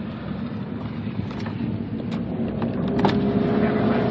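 Chase vehicle's engine and road noise while driving, growing louder as the car speeds up. A steady engine tone comes in about two seconds in, with a few short clicks.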